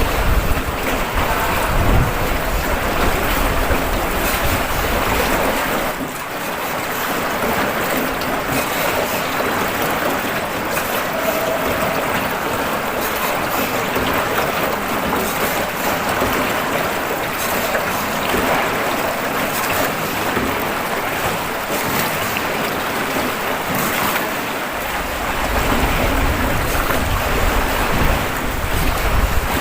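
Steady wash of wind and water noise, with wind rumbling on the microphone for the first several seconds and again for the last few seconds.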